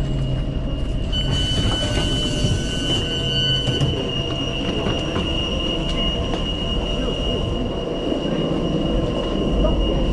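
Tyne & Wear Metro train running on the rails, with a steady rumble of wheels and a high, steady wheel squeal that sets in about a second in. A short hiss is heard during the first few seconds of the squeal.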